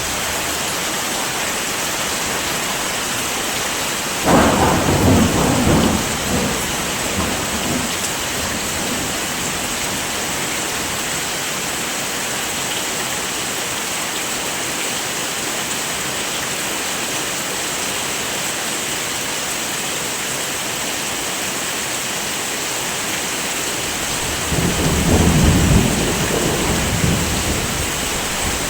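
Steady heavy rain hiss with two rolls of thunder: one breaking suddenly about four seconds in and rumbling for a few seconds, another swelling and rumbling near the end.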